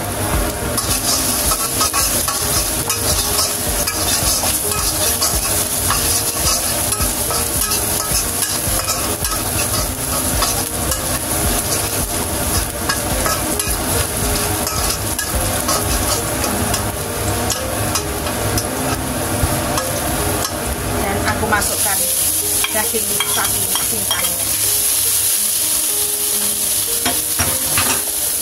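Minced garlic sizzling in hot oil in a wok while a metal spatula stirs it, clicking against the pan. About twenty seconds in the sound changes as minced beef goes into the wok, and the sizzling and stirring go on.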